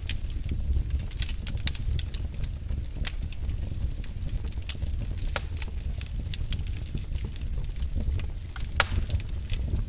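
Wood fire burning in a fireplace: a steady low rumble of flames with scattered sharp crackles and pops, two of them louder, about halfway through and near the end.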